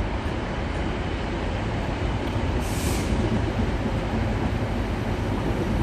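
Northern Class 319 electric multiple unit running steadily into the platform. A short hiss comes about three seconds in.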